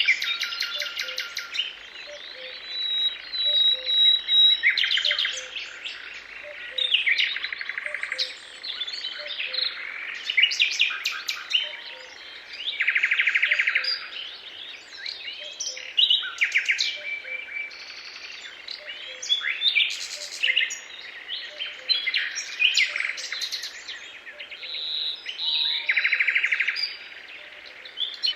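Several songbirds singing at once: overlapping chirps and fast, rattling trills, one after another.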